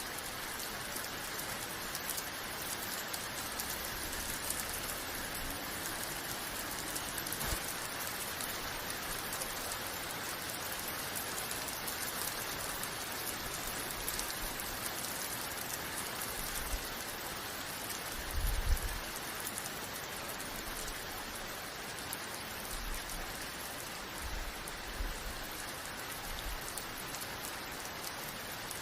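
Steady rain falling, an even hiss of many drops. About two-thirds of the way through there is a brief low thump, the loudest moment.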